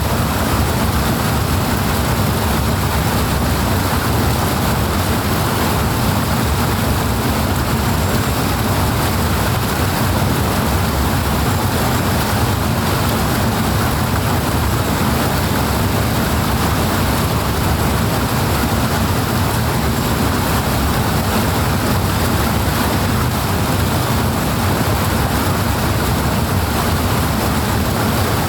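Powerful flowing water rushing steadily, a loud, even noise with no breaks or changes.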